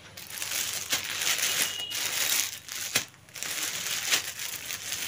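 Packaging around newly bought scarves crinkling and rustling as it is handled and opened, with a few sharper crackles.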